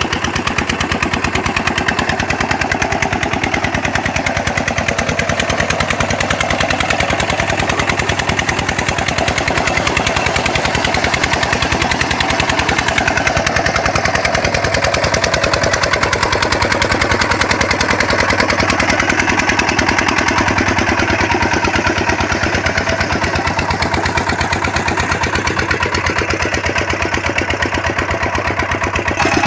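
23 hp diesel engine driving an agricultural water pump, running steadily with an even, rapid beat of firing strokes.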